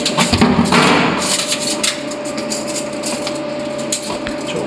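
A quick run of knocks and clicks, densest in the first two seconds and then scattered, from tools or metal stock being handled, over a steady hum.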